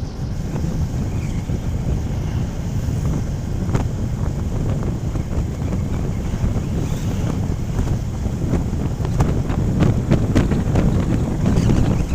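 Wind rushing over the microphone of a moving motorcycle, a steady heavy low rumble with the ride's engine and road noise beneath it, and a few short crackles near the end.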